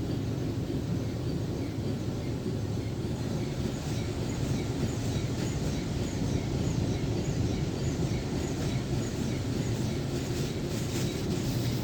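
Jim Coleman Water Wizard car wash machine running: a steady low mechanical rumble, with a faint high chirp repeating about twice a second.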